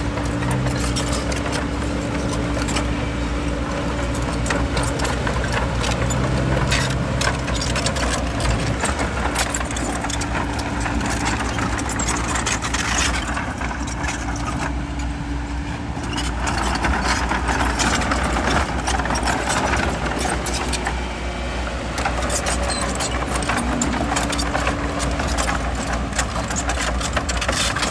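Crawler bulldozer's diesel engine running steadily under load, with a dense, continuous clatter over it.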